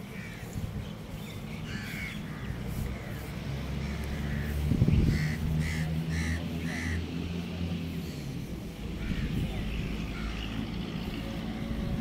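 Birds calling, including a run of four short calls about half a second apart in the middle, over a steady low rumble. A single thump comes just before the run of calls.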